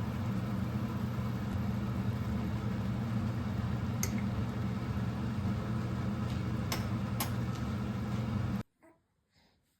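A steady motor hum with a few light clicks, cutting off suddenly near the end.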